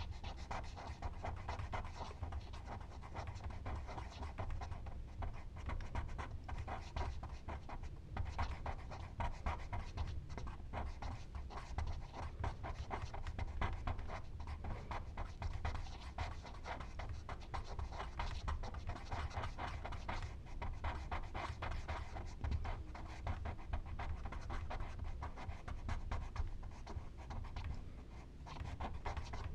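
Charcoal rubbed on paper in rapid, continuous back-and-forth strokes, as when shading or blending a drawing.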